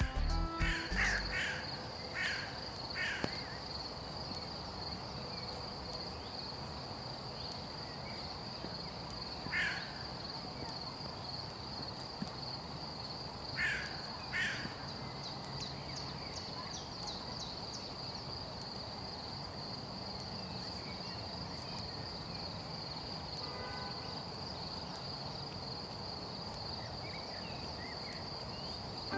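A steady high-pitched insect whine with a few short, harsh bird calls: three in the first few seconds, one near ten seconds and two more near fourteen seconds.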